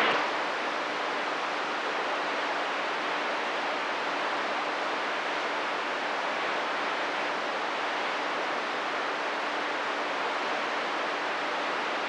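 CB radio receiver hissing with static on an open channel between transmissions, with a faint steady hum-like tone under the hiss.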